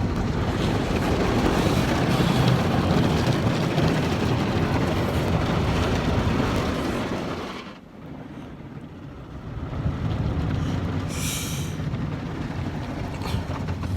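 Automatic car wash heard from inside the car: a steady rush of water spray and machinery on the car's body, which dies away about seven or eight seconds in and starts again about two seconds later. A short high hiss comes shortly after it restarts.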